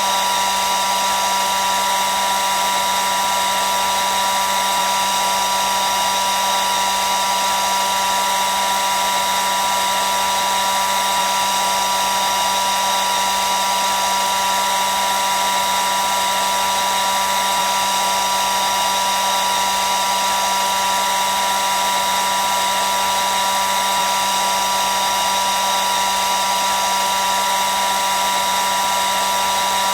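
Hair dryer running continuously: a steady whirring hiss with a constant high whine from its fan motor, never changing in pitch or level.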